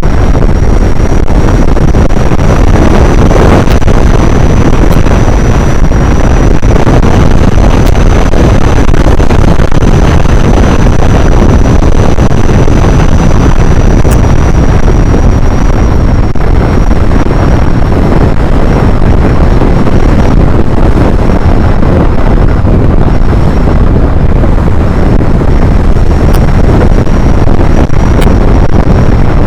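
Heavy wind buffeting on the microphone while travelling, loud and steady, with a faint high steady whine.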